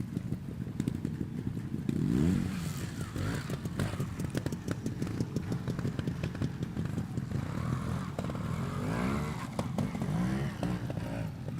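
Trials motorcycle engine running and being blipped in short revs, its pitch rising and falling about two seconds in and again near the end, with scattered clicks and knocks.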